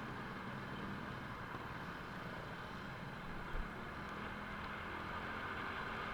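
A steady wash of rain noise with a low, even motor hum underneath, and a brief low thump about three and a half seconds in.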